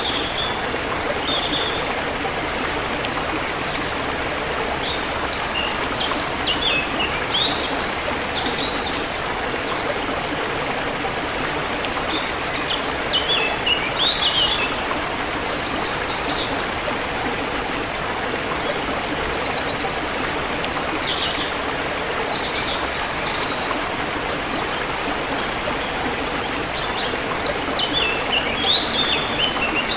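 Forest river flowing steadily, with songbirds chirping over it in several short runs of quick high notes.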